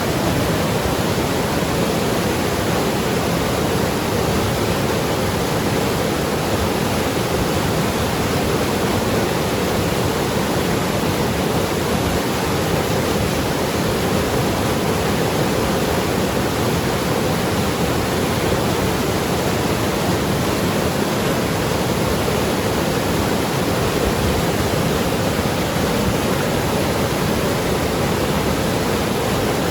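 Mountain river rushing and tumbling over rocks: a steady, loud rush of water that does not change.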